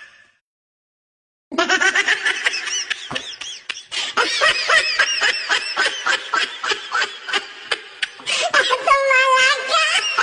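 A baby laughing hard in rapid high-pitched bursts, starting about a second and a half in, with a longer drawn-out squeal near the end.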